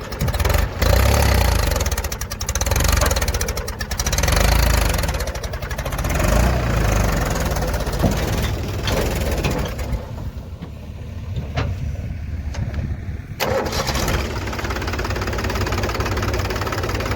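Heavy diesel engine running under varying load, its level rising and falling. It drops off for a few seconds past the middle, where a few sharp clicks stand out, then picks up again.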